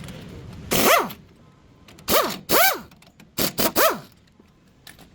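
A dog barking, about five short barks over three seconds, each rising and falling in pitch.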